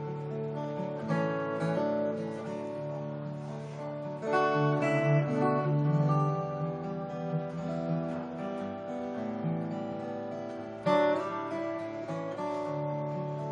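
Acoustic guitar playing an instrumental piece, chords strummed and left ringing, with new strums about a second in, about four seconds in and again near the end.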